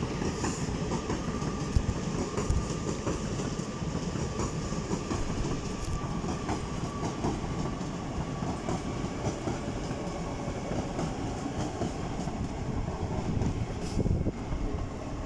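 LNER Class 801 Azuma electric train running past along the platform lines, a steady rumble with the clicking of its wheels over the rail joints.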